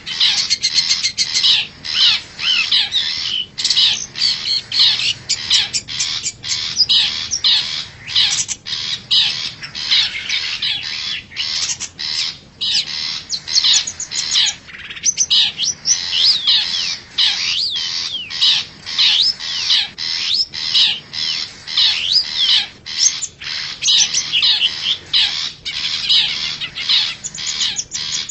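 Long-tailed shrike (cendet) calls: a rapid, unbroken stream of harsh chattering and squawking notes with quick falling sweeps, played as a lure call to draw wild shrikes in.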